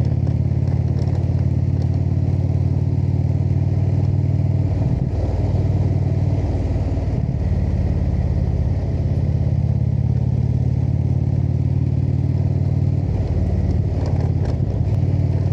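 Indian V-twin motorcycle engine running at road speed with a steady low exhaust note that dips and picks up again three times (about 5, 9 and 13 seconds in) as the throttle eases off and opens back up.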